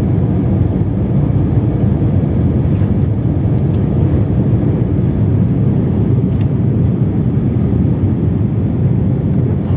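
Airliner cabin noise during takeoff: a steady, loud low rumble of the engines and rushing air.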